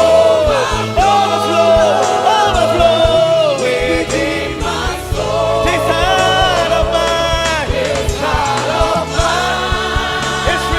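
Gospel worship music: singers holding long sung notes over keyboard and bass, with a steady drum beat.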